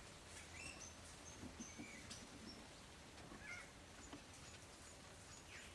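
Faint, scattered short high chirps of small birds, with a few soft ticks in between.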